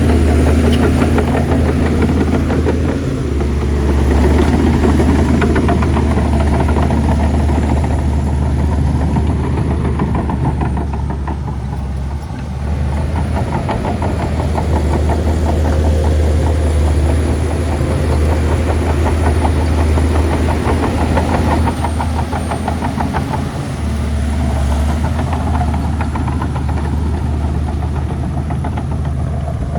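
Heavy diesel engine of a Shantui bulldozer running steadily with a fast, even beat. It eases off briefly twice, about twelve and twenty-three seconds in, then picks up again.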